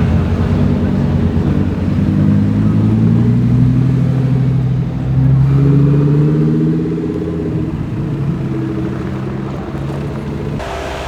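Lamborghini engine accelerating away: the pitch climbs for about six seconds, with a short dip around five seconds in, then eases off and falls. The sound cuts off abruptly just before the end.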